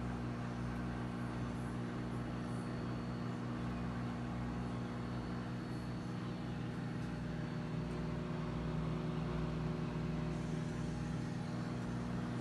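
Electrolux MTD30 microwave oven running under test: a steady low mains hum with an even rushing noise beneath it.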